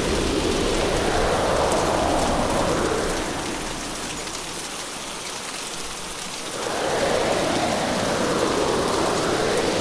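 Heavy storm rain with gusting wind, a dense steady rush that eases off about three seconds in and surges back up after about six and a half seconds.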